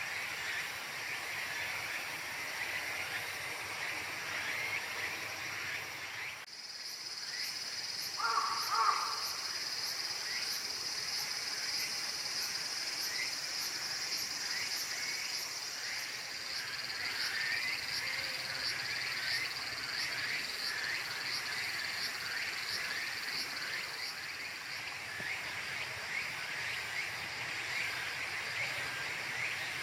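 Chorus of calling frogs and insects: rapid repeated chirps throughout. About six seconds in, a higher, steady pulsing buzz joins, and a brief louder call sounds around eight seconds in.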